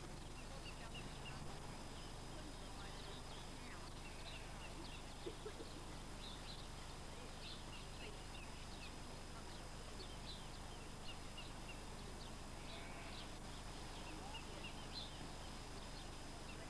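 Faint outdoor ambience with small birds chirping on and off in short, high clusters, over a steady low hum.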